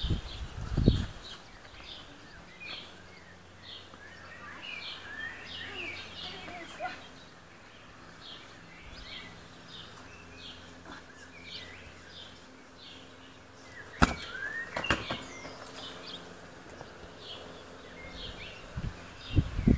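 A small bird chirping over and over in short high notes, about one a second, with two sharp knocks about a second apart late on.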